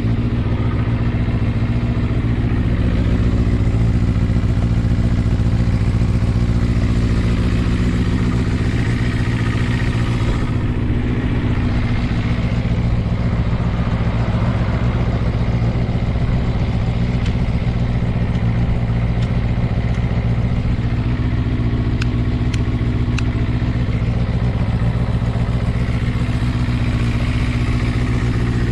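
Kawasaki ZRX400's air-cooled inline-four engine idling steadily through a Moriwaki ZERO titanium full exhaust. The seller notes no abnormal noise, but a broken ignition governor and ignition timing that is out.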